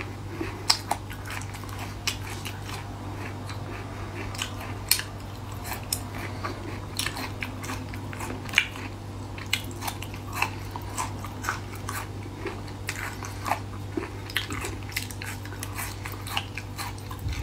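Close-up chewing and biting of seasoned beef-skin strips, with irregular crisp crunches and mouth clicks. A steady low hum runs underneath.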